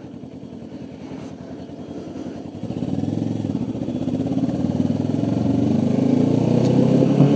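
Kawasaki Ninja 650R's parallel-twin engine running on the road. It is quieter at first, then gets louder about two and a half seconds in as the throttle opens, and the engine note climbs steadily in pitch as the bike accelerates.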